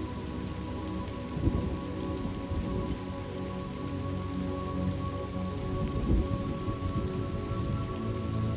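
Thunderstorm ambience: steady rain falling, with a low rumble of thunder about a second and a half in and another about six seconds in.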